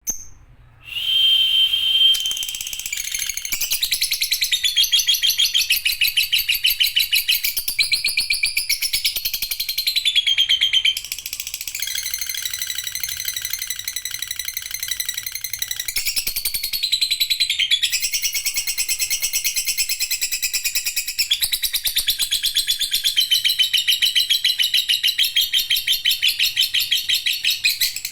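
Lovebird 'ngekek': a long, almost unbroken run of rapid, high-pitched chattering. It opens with a short held whistle about a second in, and dips only briefly twice.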